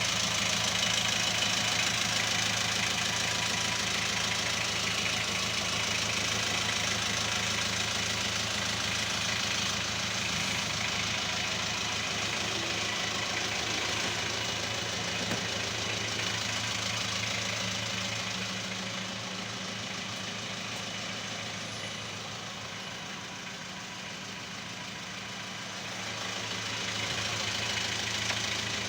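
Chevrolet LUV station wagon's engine idling steadily, a little quieter for a few seconds past the middle.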